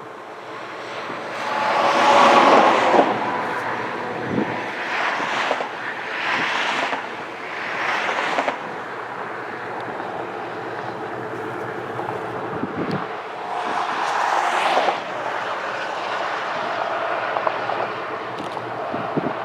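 Traffic passing on a highway: several vehicles rush by one after another, each swelling and fading, over a steady rushing background.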